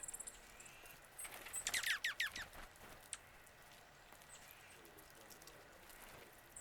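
Wild birds calling: a quick run of very high, thin notes at the start, then, about two seconds in, a loud series of about seven downslurred whistled notes. A single faint high note follows shortly after.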